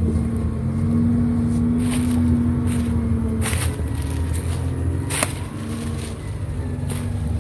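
Suzuki Jimny engine running steadily at low revs while crawling slowly in low gear. Two sharp knocks stand out, about three and a half and five seconds in.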